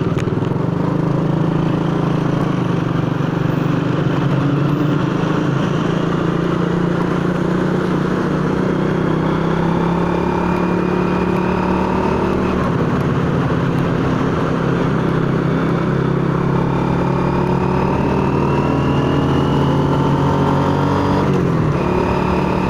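Honda Astrea motorcycle's single-cylinder four-stroke engine running under way, its pitch climbing slowly as it accelerates, with a brief dip near the end like a gear change. Wind rushes steadily over the microphone.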